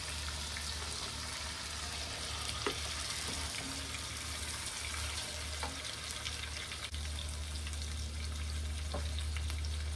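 Marinated chicken pieces sizzling in hot oil as they go into a frying pan over browned onions. A few light knocks of a wooden spoon on the glass bowl and pan come through the sizzle, over a steady low hum.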